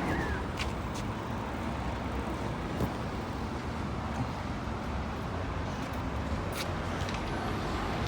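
Road traffic passing: a steady low engine rumble and tyre noise, with a couple of faint clicks.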